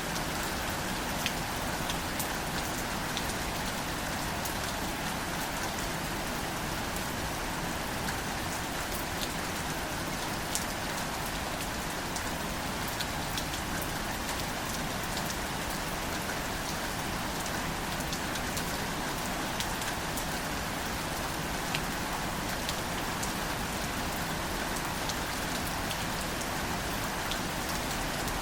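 Steady gentle rain falling on wildflowers and foliage: an even hiss with scattered close drop ticks.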